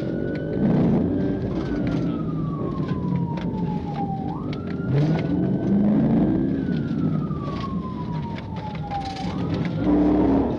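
Police car siren on a wail, each cycle jumping up quickly, holding, then sliding slowly down, repeating about every five seconds. Under it a vehicle engine revs up twice as the car accelerates.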